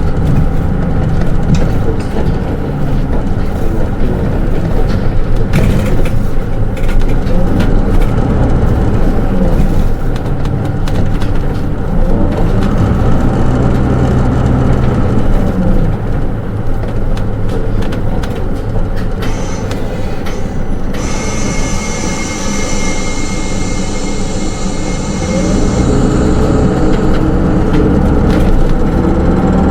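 Hino Rainbow II SDG-KR290J1 city bus running, heard from inside the passenger cabin, its diesel engine and drivetrain rising and falling in pitch. About two-thirds of the way in, a set of high steady tones starts suddenly and runs for several seconds.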